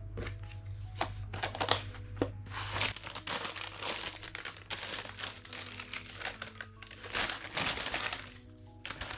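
Plastic packaging crinkling and rustling as it is handled, with light clicks and knocks of items being moved, over soft background music.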